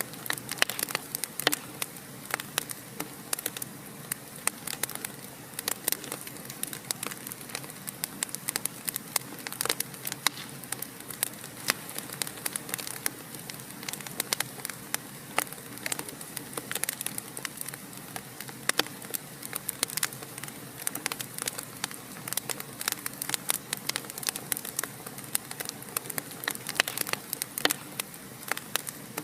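Fire in a fireplace crackling steadily, with frequent sharp pops and snaps over a soft, even hiss.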